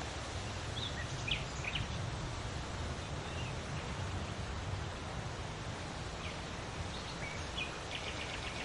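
Steady wind blowing with a low rumble, and a few short bird chirps about a second in and again near the end, the last a quick run of notes.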